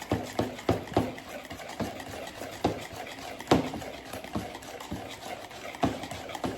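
Hand whisk beating a thick, lumpy pudding mixture in a bowl, knocking against the side about three times a second. The mixture is being worked to break up its clumps.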